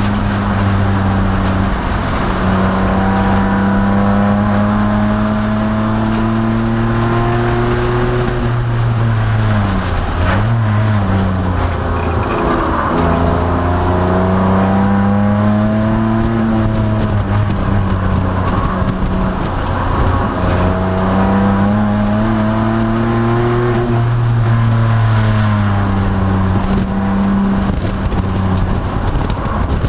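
2002 Nissan Maxima's V6 engine running hard at racing pace, with steady road and wind noise. The engine note falls away and climbs again about ten seconds in, then swings down and up a few more times later on.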